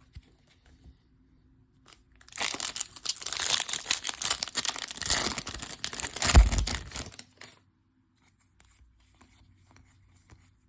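A 2021 Topps Series 2 baseball card pack's foil wrapper being torn open and crinkled for about five seconds, starting about two seconds in, with a thump near the end.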